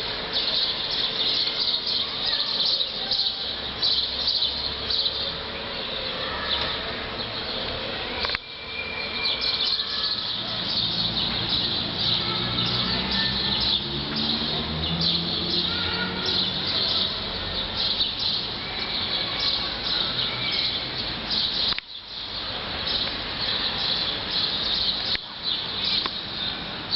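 Dense, continuous high-pitched chirping, with a lower sound whose pitch shifts about halfway through. The chirping breaks off briefly around 8 and 22 seconds in.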